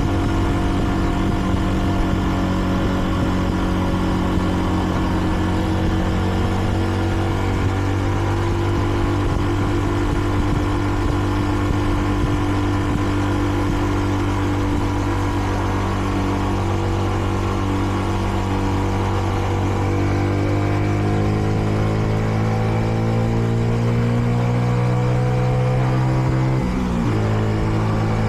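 Kreidler Dice CR 125 motorcycle's single-cylinder four-stroke engine running steadily under way, then pulling up in revs for several seconds and dropping sharply near the end, as on a shift up a gear. The engine is still in its running-in period and held to moderate speed.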